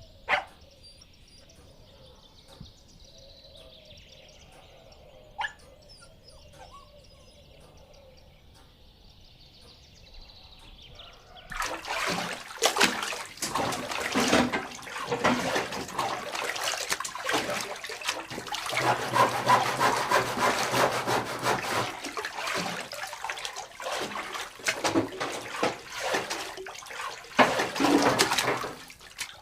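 Foley water splashing and sloshing: after a quiet stretch broken by two sharp clicks, a loud, dense, irregular splashing starts suddenly about a third of the way in and keeps going.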